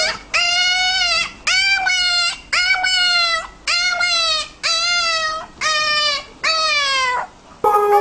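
A dog whining in a run of about eight drawn-out, high calls, each under a second long and dropping in pitch at its end.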